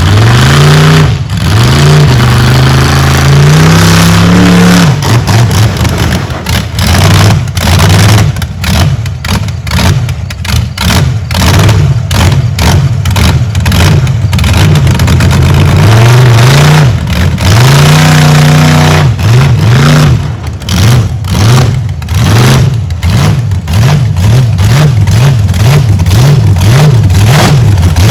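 Big truck engine revving hard again and again, its pitch climbing and dropping, loud throughout, with frequent clatter over it.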